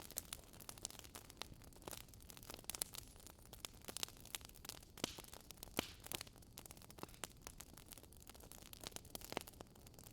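Wood fire crackling: irregular small pops and snaps over a soft hiss.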